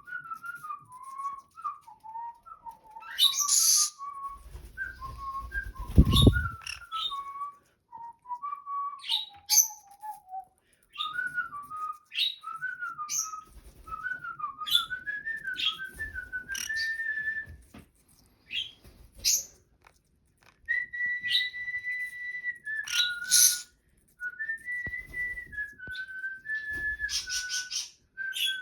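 A pet yellow-sided green-cheeked conure whistling a wandering, gliding tune with one longer held note, broken by many short sharp chirps.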